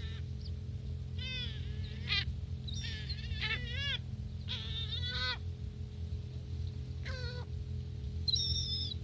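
Gulls calling: a series of short cries that rise and fall in pitch, some in quick runs, with a shriller call near the end, over a steady low hum.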